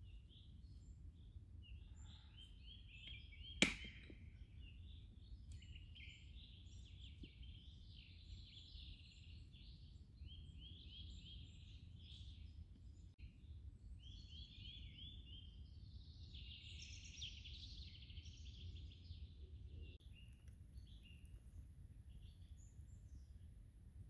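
Songbirds singing, repeated short song phrases over a low steady rumble, with a single sharp click or snap about three and a half seconds in.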